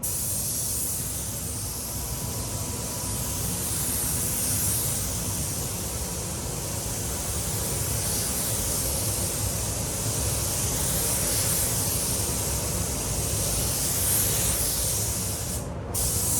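Compressed-air paint spray gun hissing steadily at a lowered pressure of 1.2 bar, laying on a dry drop coat of metallic basecoat, over a steady low rumble. The hiss stops briefly about a second before the end, then starts again.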